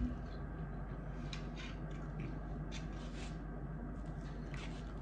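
Faint, irregular chewing of food in the mouth, over a steady low hum of room noise.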